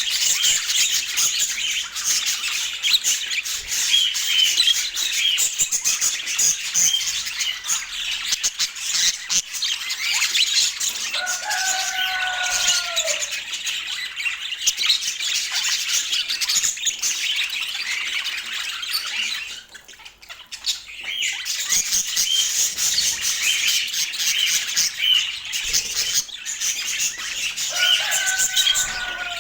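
Budgerigars chattering and chirping in a continuous fast warble, with a short lull about twenty seconds in. Twice a lower call falls in pitch.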